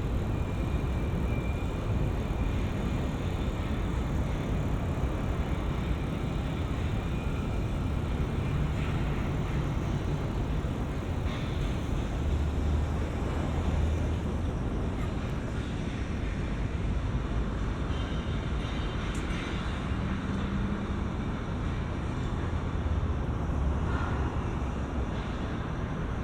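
Steady rumble of road traffic with wind noise, heard from a bicycle riding beside the lanes of a busy bridge.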